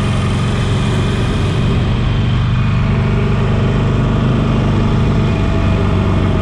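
Harley-Davidson Sportster 48 Special's air-cooled 1200 cc Evolution V-twin running steadily on the ride, its pitch holding level throughout.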